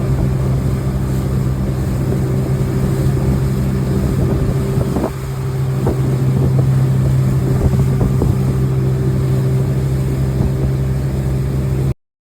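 Inboard motorboat engine running at a steady speed, with a strong constant low hum and some wind on the microphone. It cuts off suddenly about a second before the end.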